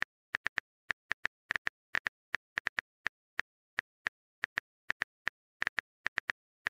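Phone keyboard typing sound effect: a quick, irregular run of short clicks, about three or four a second, as a message is typed out.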